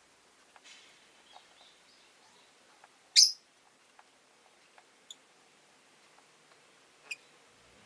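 Rosy-faced lovebird giving one loud, sharp chirp about three seconds in, then two fainter short chirps, with a few light taps between.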